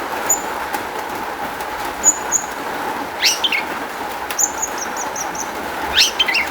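Long-tailed shrike (cendet) singing a varied song with mimicked notes. Short high whistled notes come singly, in a pair, then in a quick run of about six; harsh falling calls come about three seconds in and near the end. A steady hiss runs underneath.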